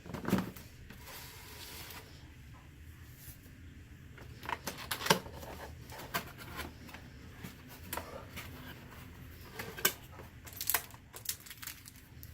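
Unboxing handling: a short rustle at the start, then scattered light knocks and clicks as packaging and parts are handled, with small clusters of quick clicks about four to five seconds in and again near the end.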